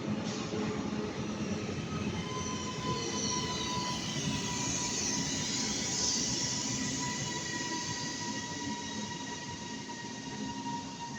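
Northern Class 331 electric multiple unit moving through the station: a steady rumble of wheels on rail with several high, steady whining tones, and a higher squeal that swells and fades around the middle.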